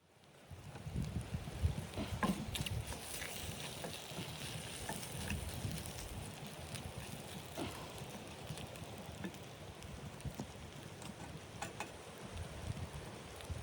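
Wood fire crackling, with irregular small pops and snaps over a steady low rumble.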